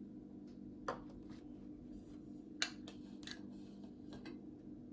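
Faint, scattered taps and clicks of kitchenware as buckwheat flour is added to the mixing bowl, over a steady low hum.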